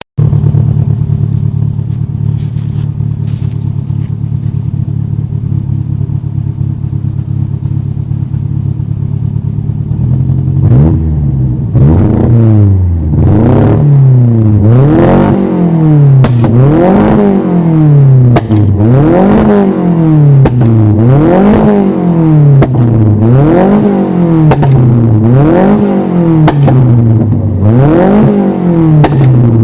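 A 1985 Ford Orion XR3-i engine and exhaust idling steadily, then revved hard over and over, about once every two seconds, from roughly ten seconds in, each rev rising sharply and dropping back.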